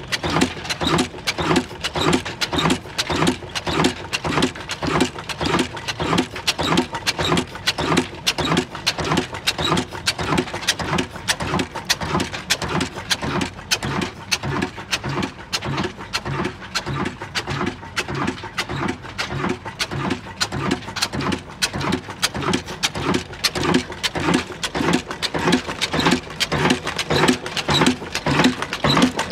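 Old Ruston Hornsby diesel engine running with a steady, even rhythmic beat.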